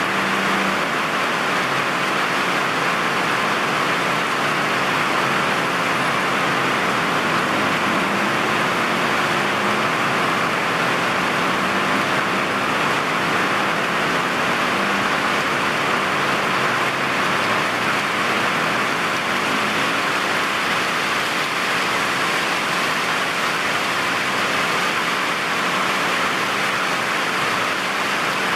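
Heavy rain pouring steadily, a dense even hiss, with a faint low hum of road traffic underneath.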